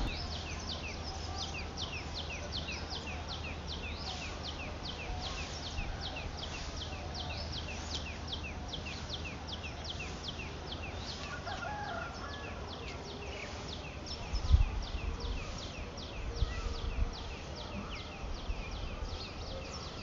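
A bird chirping steadily: short, high, falling chirps, about three a second. A few low thumps come after the middle.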